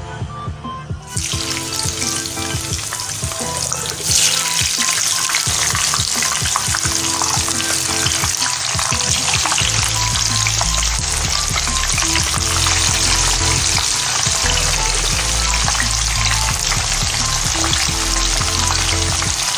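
Cassava pieces deep-frying in a wok of hot oil: a dense, crackling sizzle that becomes suddenly louder about four seconds in, as the wet, brine-soaked pieces go into the oil.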